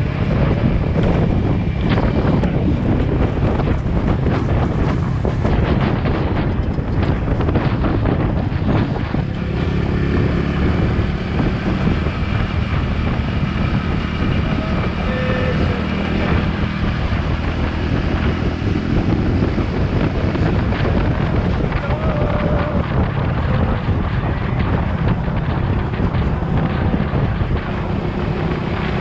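Motorcycle engine running at a steady riding speed, heavily buffeted by wind noise on the microphone.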